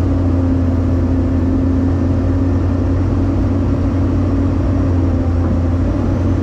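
Heavy-equipment diesel engine running steadily: a loud, even drone with a steady whine above it.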